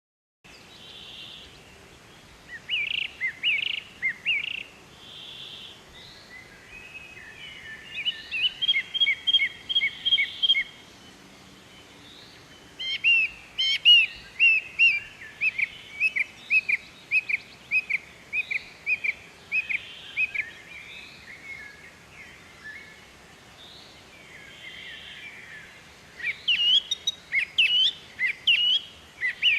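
Songbirds chirping in runs of quick, high, repeated notes, with quieter spells between the runs. The busiest runs come around the middle and near the end.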